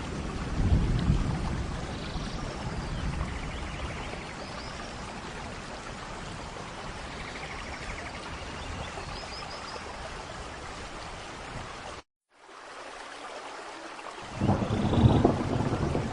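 Steady rain with rolling thunder: a deep rumble about a second in, and another swelling up near the end. The sound cuts out completely for a moment about twelve seconds in, then returns quieter.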